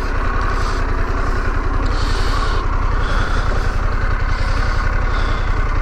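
Harley-Davidson Pan America 1250's V-twin engine idling steadily, with an even, rapid low pulse.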